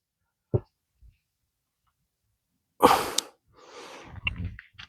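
A short click about half a second in, then a sudden loud burst of breath from a person about three seconds in, followed by fainter breathing.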